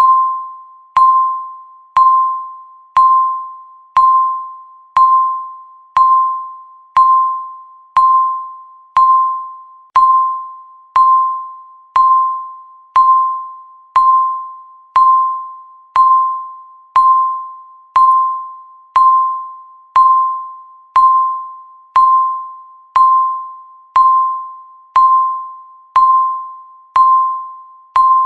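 Countdown timer's tick sound: a single bell-like tone struck once every second, each one fading away before the next, in a steady even rhythm.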